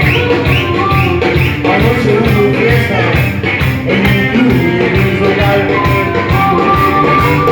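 Rock-and-roll band playing the song's instrumental opening: a steady drum beat under bass and guitar, with a held high note coming in about two-thirds of the way through.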